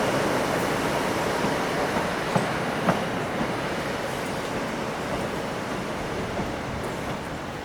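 A passing train's wheels click over rail joints, the clicks thinning out in the first three seconds while the running noise slowly fades away.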